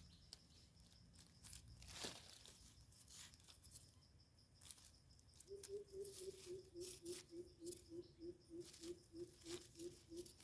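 Faint rustling and snapping of leaves and soil. From about halfway in, a low hooting animal call repeats steadily at about four notes a second.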